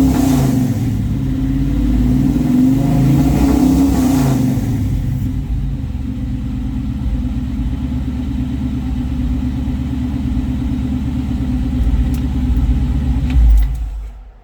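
Old Chevrolet engine revved a couple of times, then settling to a steady idle, with a brief loud blip near the end before it cuts off. The owner puts its rough running down to really bad gas after the car has sat for a week.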